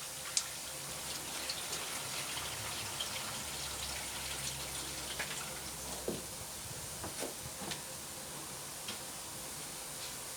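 Water poured from a jug into an Indesit washing machine's detergent drawer, running steadily through into the drum, with a few light knocks and clicks.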